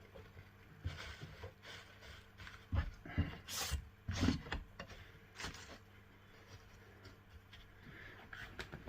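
Dry crushed leaf litter being handled and scattered onto the enclosure substrate: irregular crackling rustles with a few soft thumps, busiest in the first half and fading out.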